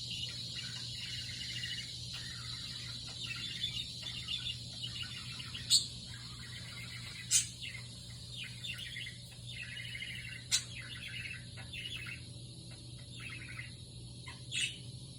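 A budgerigar chattering and warbling in a steady stream of quick, scratchy notes. Four sharp, loud chirps break through it.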